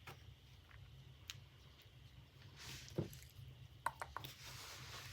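Faint handling sounds of fabric being worked into a metal clasp purse frame: a few light clicks, a dull thump about three seconds in, then a cluster of clicks and a soft hiss near the end.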